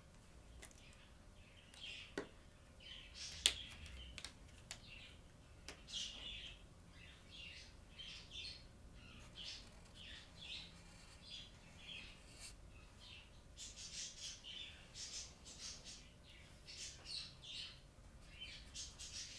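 Faint, rapid, high bird chirping, thicker in the second half, with two sharp clicks about two and three and a half seconds in.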